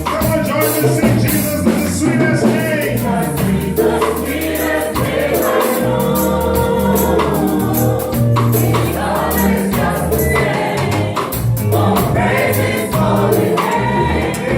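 Gospel choir singing with a full band, with bass and percussion under the voices.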